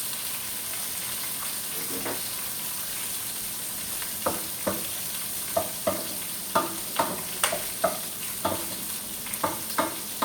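Food sizzling in hot oil in a pan, a steady frying hiss. From about four seconds in, a metal utensil clinks against the pan again and again, about one to two times a second, as the food is stirred.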